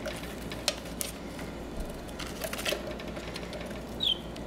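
Scattered light clicks and taps over a faint steady hiss, with one short budgie chirp about four seconds in.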